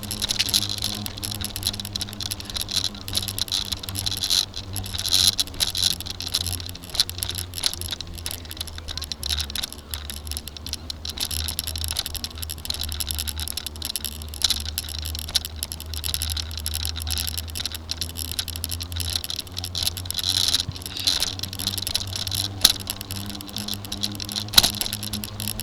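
Bicycle on the move, rattling and clicking irregularly throughout, with a steady low rumble for much of the time and insects droning in the background.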